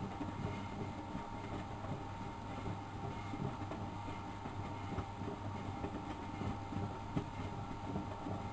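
Miele Professional WS 5105-C washing machine running mid-cycle: a steady motor hum with a constant whine, and irregular low knocks and thuds from the turning drum and its load.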